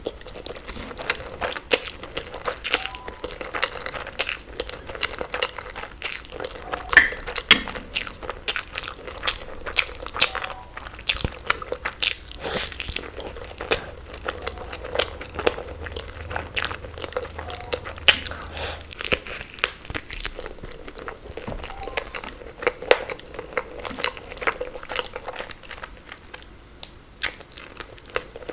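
Close-miked chewing of crunchy food, with many irregular sharp crackles and crunches.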